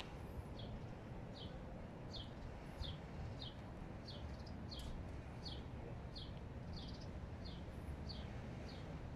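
A small bird chirping over and over, short falling notes about every two-thirds of a second, over a low steady background rumble.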